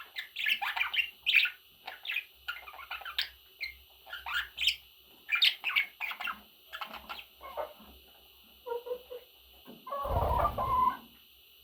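Pet budgerigars chirping and chattering in many short, quick calls, thinning out after about seven seconds. About ten seconds in there is a louder, rough burst lasting about a second.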